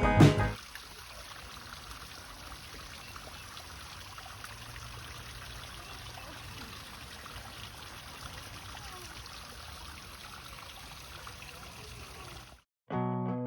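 Steady trickle and splash of flowing water, as from a small garden stream or waterfall. Music cuts off about half a second in and comes back near the end.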